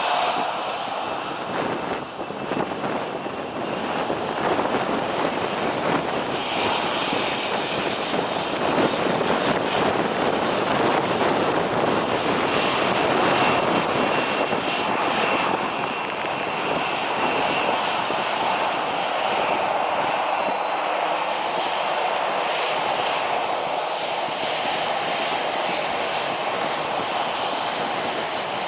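Airliner engines running loud and steady, a thick rushing noise with a faint high whine that comes and goes.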